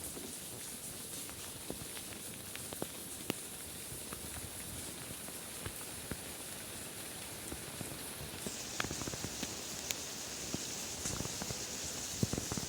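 Steady rain falling, with scattered drops ticking on a hard surface. A little past halfway, the hiss shifts lower in pitch.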